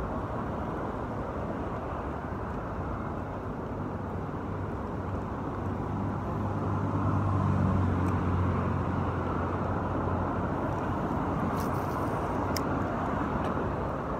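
Steady road traffic from a busy highway, with a heavier vehicle's low engine hum swelling through the middle and fading. A few faint clicks near the end.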